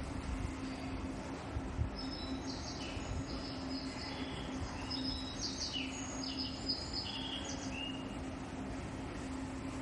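A run of short, high chirping whistles at several different pitches, over a steady low hum and background noise.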